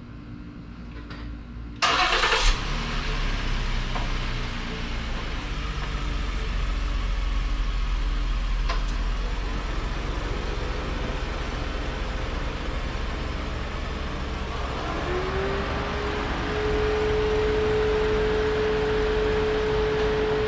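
Ford Explorer's engine starting with a short crank about two seconds in, then idling and running as the SUV pulls slowly forward. Near the end, a steady tone rises briefly and then holds.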